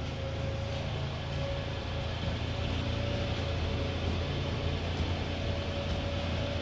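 A car engine running steadily: an even low hum with a faint constant whine above it.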